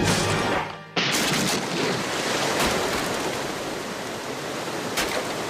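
Cartoon sound effects: a brief whoosh fades out, then about a second in a sudden loud blast sets off a steady rushing, water-like noise.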